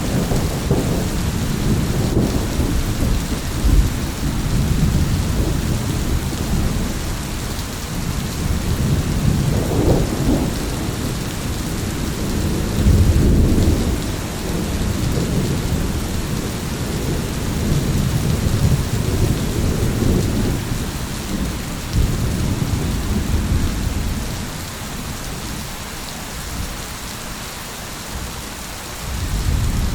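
Thunderstorm: steady heavy rain with rolling, rumbling thunder that swells and fades several times, easing off near the end before building again.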